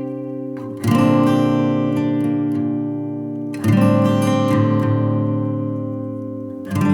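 Background music: acoustic guitar chords strummed about every three seconds, each left to ring and fade before the next.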